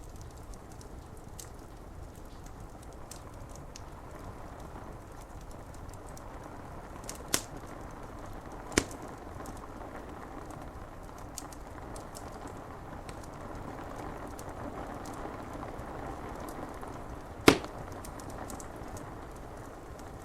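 Wood fire crackling with faint ticks and a few sharp pops, the loudest about three-quarters of the way through, over a steady hiss of rain on window glass.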